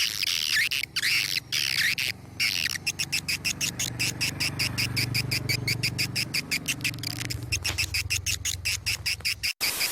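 Small birds twittering in high, sweeping chirps. About three seconds in they change to a fast, even run of short chirps, roughly eight a second, over a low hum.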